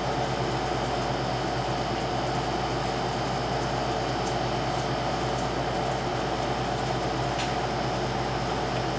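Steady mechanical hum with a constant hiss, unchanging throughout, with two faint clicks about four and seven seconds in.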